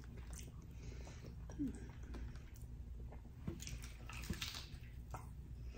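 Close-miked eating sounds: a piece of breaded fried food picked up and bitten, then chewed, with scattered small crunches, clicks and wet mouth noises.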